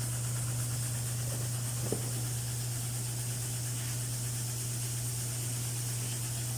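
Steady low hum with a hiss behind it, and one light click about two seconds in.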